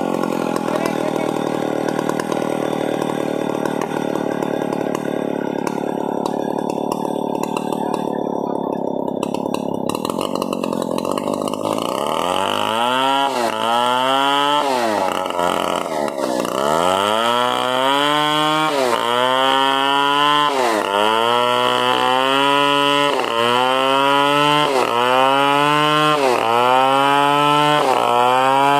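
Stihl 070 two-stroke chainsaw running at high speed, steady for the first dozen seconds, then its engine pitch repeatedly dipping and climbing back about every second and a half as it works into the wood.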